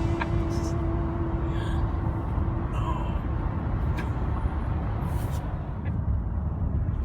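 Car driving, with a steady low road rumble. A held tone fades out in the first few seconds.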